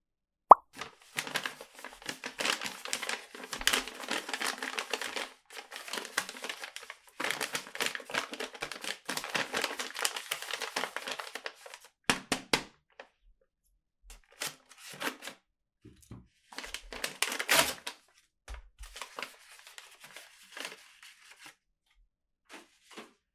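Toy packaging being handled and opened by hand: dense bursts of crinkling and tearing with scattered sharp clicks, thinning out into sparser crackles in the second half. A single sharp click about half a second in is the loudest sound.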